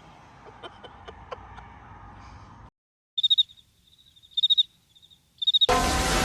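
Cricket-chirp sound effect: three short trilled chirps over dead silence, the gag for nobody answering the call to come and look. It follows a faint quiet stretch with a few small clicks, and near the end a loud steady rushing noise cuts in suddenly.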